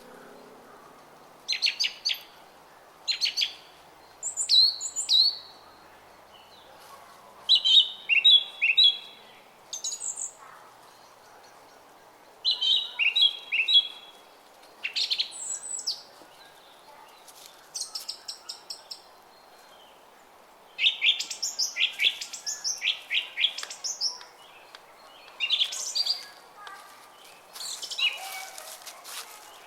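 Small songbirds chirping in short, quick phrases, one every second or two, over the steady babble of a brook.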